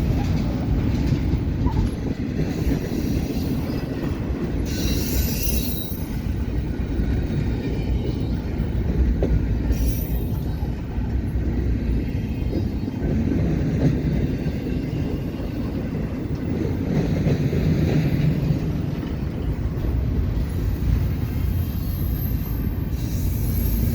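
Railroad cars rolling past, a steady low rumble of wheels on rail with brief high-pitched wheel squeals a few times.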